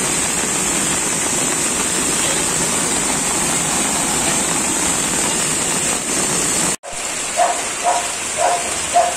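Steady noise of heavy rain and running floodwater. After a sudden break about seven seconds in, a dog barks repeatedly, about twice a second, over the rain.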